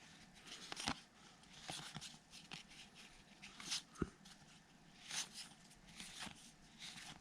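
Trading cards being flipped through by hand, sliding one off another: soft, irregular swishes and light clicks, with sharper taps about one second and four seconds in.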